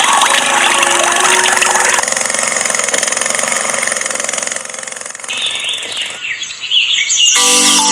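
Steady mechanical whirring with many short chirp-like squeaks, fading and breaking up past the middle; a marimba-like jingle starts near the end.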